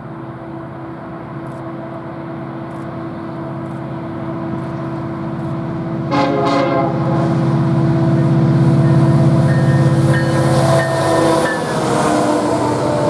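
Train approaching, its running sound growing steadily louder, with a short horn blast about six seconds in. Near the end, as it draws close, thin high squealing tones join in.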